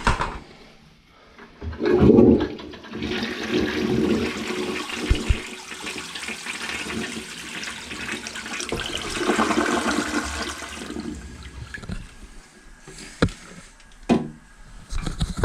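Rebuilt 1930s American Standard toilet flushing: a loud clunk about two seconds in, then water rushing out of the tank for about eight seconds before tailing off. Two sharp clicks near the end.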